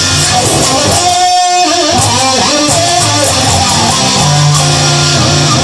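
Instrumental break in a blues-rock song: guitars playing over steady low bass notes, with a lead line bending its pitch about a second in.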